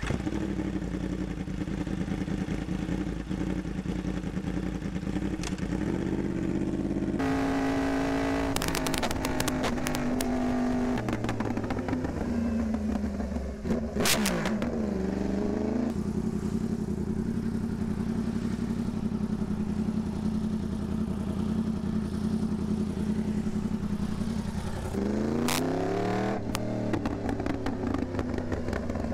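Yamaha R1M's crossplane inline-four engine running steadily, revving up sharply twice with a rising then falling pitch, and accelerating. Rapid crackles ride on the exhaust note at times.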